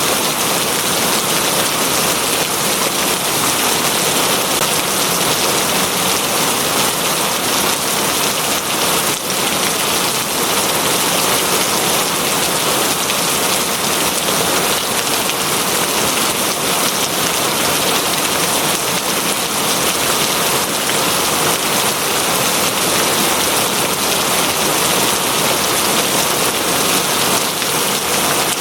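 Steady heavy rain falling on a surface, a dense even hiss with no break.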